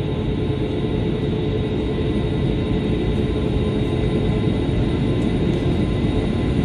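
Airbus A380 jet engines running, a steady low rumble with a constant high whine, slowly getting louder.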